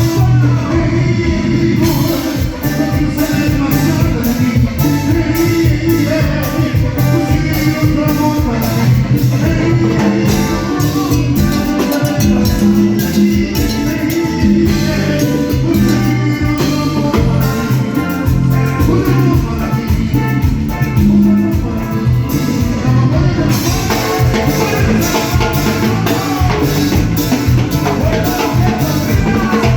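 A live band playing Latin dance music, with a steady, fast drum and percussion beat over a strong bass line.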